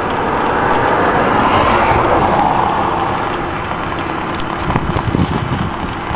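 A road vehicle passing by: its tyre and engine noise swells to a peak about two seconds in, then fades away.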